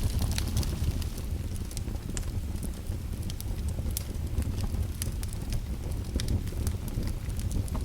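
Fire burning in a fireplace: a steady low rumble with frequent irregular crackles and pops.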